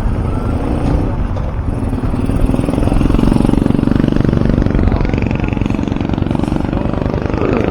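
Motorcycle engine running while the bike is ridden, with road and wind noise; the engine grows louder about three seconds in.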